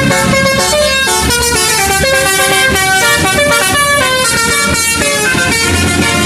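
Indonesian 'telolet' bus horn, a multi-tone horn, playing a quick tune of stepping notes.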